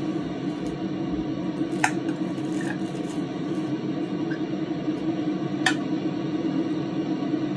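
A steady low hum throughout, broken twice by a sharp click of cutlery on a plate, about four seconds apart, as a chicken cutlet is eaten.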